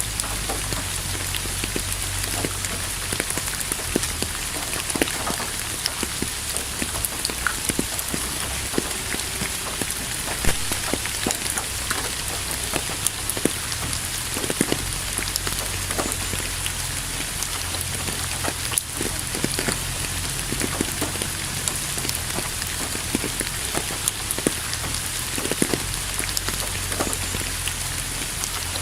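Steady rain falling, with many separate drops striking hard nearby over a low, even rumble.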